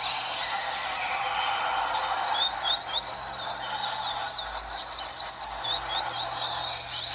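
Several double-collared seedeaters (coleiros) singing at once, their fast, high chirping phrases overlapping without a break, over a steady background hiss.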